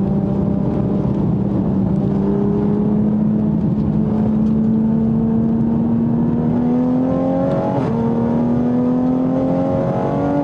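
Modified 2020 Toyota Supra's turbocharged engine under acceleration, its pitch climbing steadily. About eight seconds in there is a quick upshift, and the revs drop and then climb again.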